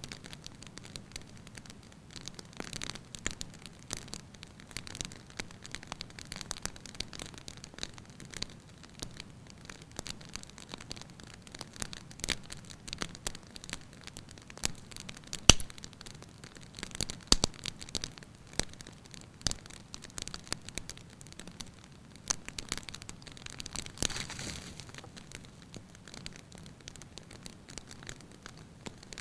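Wood fire burning in a fireplace, crackling with many irregular pops and snaps over a soft hiss; the sharpest pop comes about halfway through.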